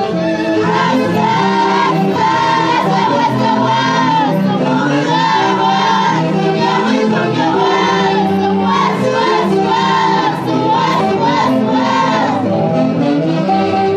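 Live orchestra music: a high, wavering melody carried over a steady, full accompaniment, the melody dropping out shortly before the end.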